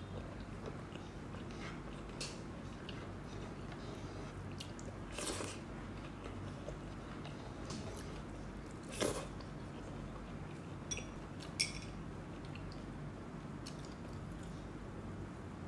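Close-miked sounds of a person chewing a mouthful of food with the mouth closed: soft, quiet mastication with a couple of louder wet smacks about five and nine seconds in, and two short sharp clicks a little later.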